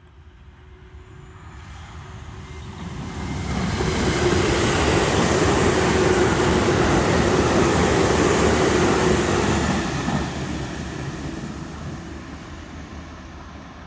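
JR Central 315 series electric train passing by: it approaches over about four seconds, runs loud for about six seconds with a steady tone under the rail noise, then fades away.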